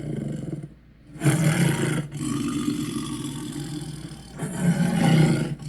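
Monster roar sound effect in the manner of a big cat or bear: a rough growl fades out, and after a short pause a loud roar starts. It settles into a steady rasping growl and swells into a louder roar near the end.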